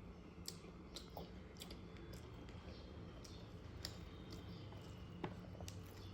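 A person chewing food, with faint mouth clicks at an irregular pace; one click about five seconds in is louder than the rest.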